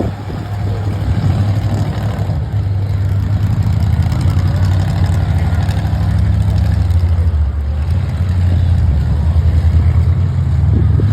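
Monster truck's engine running with a steady low note, getting a little louder about eight seconds in.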